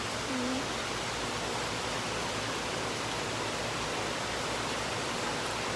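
Steady heavy rain from a thunderstorm, an even hiss with no thunder.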